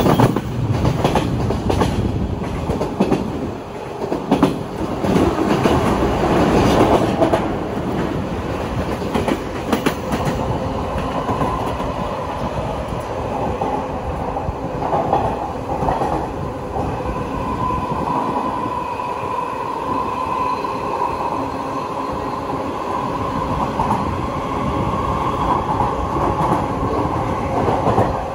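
JR 185 series electric train running, heard from on board: a steady rumble with the clatter of wheels over rail joints during the first ten seconds or so, then a steady high tone that comes in and holds through the second half.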